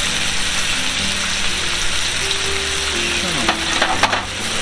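Food frying in a hot pan with a steady sizzle, and a few light clicks near the end.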